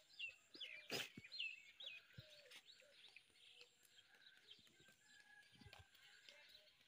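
Faint outdoor birdsong: a quick run of chirps in the first two seconds, then softer, sparser calls. A single sharp click comes about a second in.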